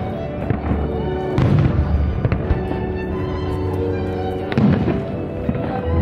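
Fireworks bursting several times, with strong booms about a second and a half in and again near the end, over music with long held notes.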